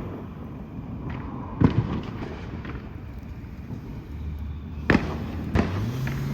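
Consumer fireworks going off: three sharp bangs, the first about a second and a half in and two more close together about five seconds in.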